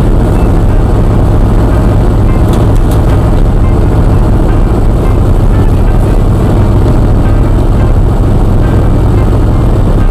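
1968 Porsche 912's 1600cc air-cooled flat-four, carburetted with no choke, idling steadily while it warms up from cold, heard from inside the cabin. Two faint clicks come about two and a half and three seconds in.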